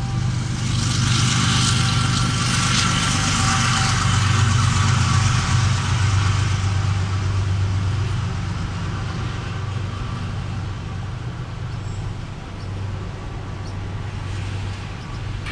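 CSX freight train passing close by: a diesel locomotive's engine hum, then the rolling rumble and metallic wheel-on-rail noise of empty autorack cars. It is loudest in the first several seconds and eases off gradually.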